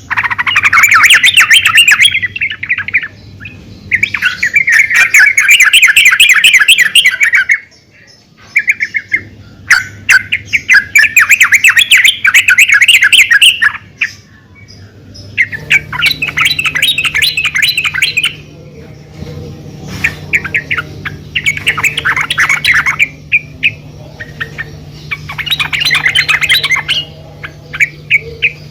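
Female yellow-vented bulbul (trucukan) giving repeated bursts of rapid chattering calls, each phrase lasting two to four seconds with short pauses between.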